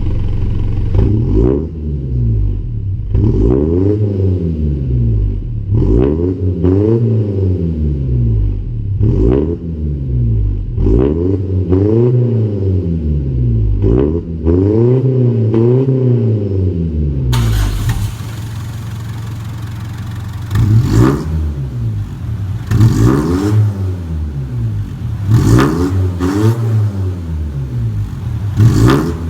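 Mitsubishi Adventure engine through an aftermarket full catback exhaust, blipped again and again. Each rev rises and falls in pitch over a second or two. About two-thirds through there is a cut to a short steady idle, then more quick revs.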